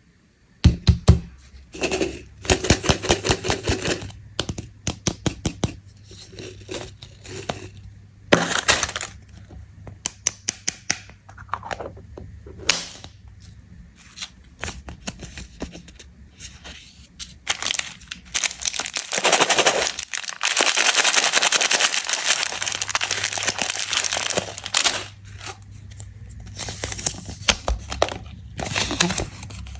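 Plastic candy wrappers and packaging being handled, crinkled and torn open, with many sharp clicks and cracks. A long stretch of steady crinkling and tearing comes about two-thirds of the way through.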